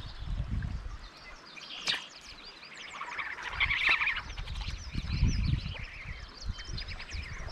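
Birds chirping and calling in quick, overlapping notes, busiest about three to four seconds in. Low rumbling bumps come and go beneath them, with a single sharp click about two seconds in.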